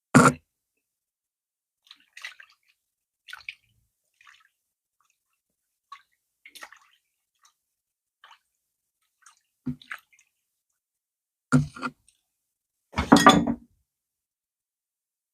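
Close-miked eating of fufu with okra soup: scattered short wet mouth smacks and squishes, with a loud one at the start and a louder, longer wet burst near the end.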